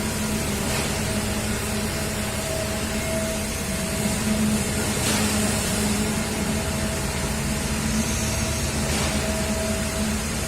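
Truck-mounted Putzmeister concrete pump running while pumping concrete: a steady engine drone with a constant hum, and a faint clunk about every four seconds.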